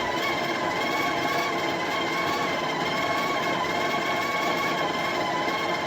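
The built-in conical burr grinder of a Breville Barista Touch Impress espresso machine grinding coffee beans at grind setting 17: a steady motor whine.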